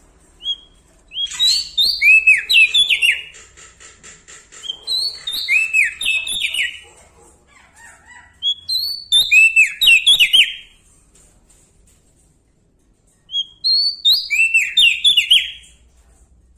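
Prenjak daun Lombok singing loudly: four bursts of quick, clear whistled notes, each note slurring up then down, with short pauses between bursts.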